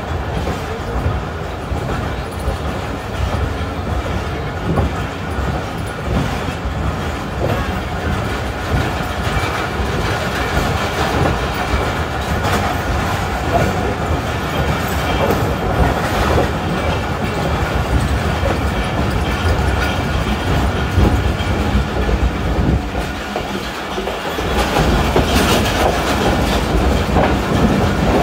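Passenger train coaches rolling out of a station, wheels clattering over rail joints with a steady running rumble, heard from an open coach window. The sound grows louder near the end as the train runs onto the station points.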